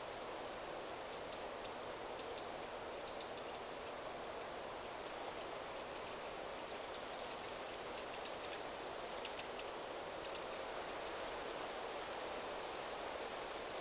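Forest ambience: a steady rustle of wind in the trees with many short, high bird chips and ticks scattered over it, busiest about two-thirds of the way in.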